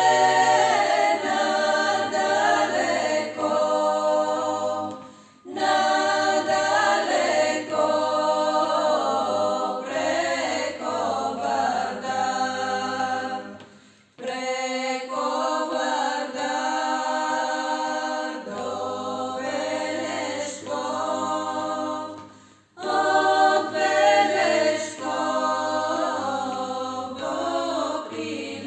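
A group of voices singing in harmony without instruments, in long phrases broken by short breaths about 5, 14 and 23 seconds in.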